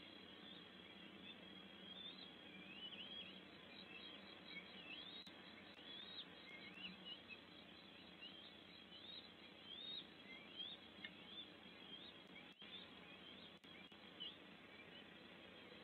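Faint, thin bird chirps, each a quick upward-sweeping note, repeated in a loose series about once or twice a second over a quiet forest background.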